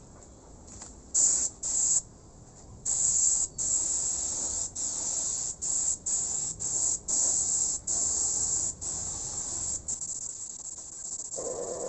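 Paint being sprayed onto the wooden shelf in hissing bursts: two short squirts, then a run of longer ones with brief pauses between them, as the brown finish coat goes on.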